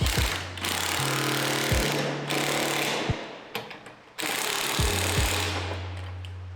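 Workshop power-tool noise from auto-body frame repair: a rapid hammering rattle over a steady low hum, chopped into short clips that start and stop abruptly about every second.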